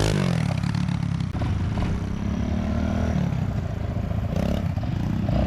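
A small off-road vehicle engine revving, its pitch rising and falling several times as the rider works the throttle.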